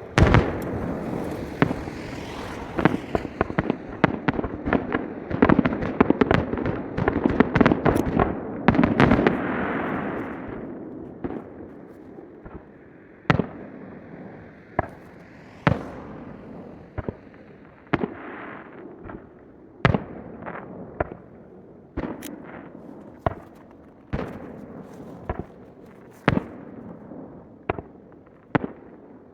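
Aerial fireworks bursting, sped up to triple speed. A dense volley of bangs over a continuous rumble fills the first ten seconds or so, then single separate bangs follow every second or two.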